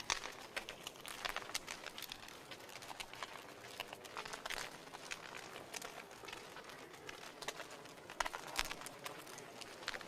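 Wood fire crackling in a fireplace, with a steady stream of small snaps and a few louder pops about halfway through and near the end.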